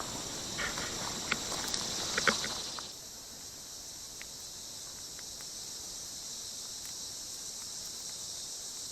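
Steady, high-pitched chorus of insects in the open air. A few faint knocks and handling sounds come in the first three seconds; after that it is steadier and a little quieter.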